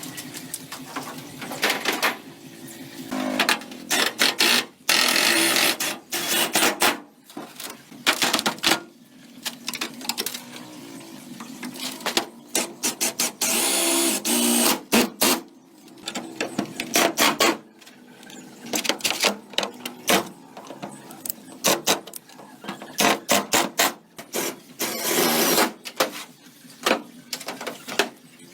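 Hand tools working on metal parts: irregular clicks, clanks and short scraping bursts, coming in uneven bunches.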